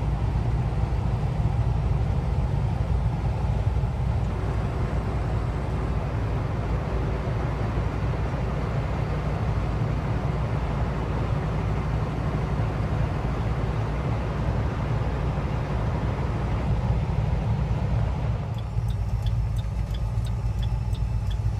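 Semi truck's engine and road noise heard from inside the cab while driving: a steady low rumble. Near the end the rumble eases a little and a regular ticking of about two strokes a second starts.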